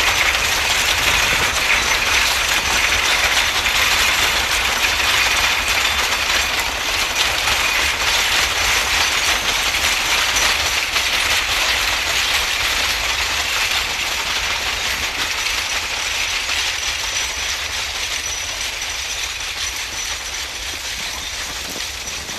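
A narrow-gauge coal train hauled by a C2 steam locomotive rolling along the rails, with a steady rattling clatter of wheels and wagons that slowly fades over the last several seconds.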